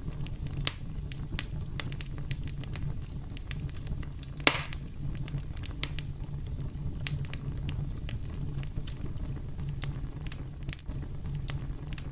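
Campfire burning with a steady low rumble and irregular sharp crackles and pops of burning wood, one louder pop about four and a half seconds in.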